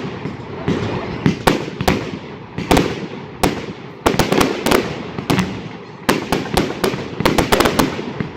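Fireworks going off: a rapid, irregular run of sharp bangs and crackles, bunched in clusters about a second apart.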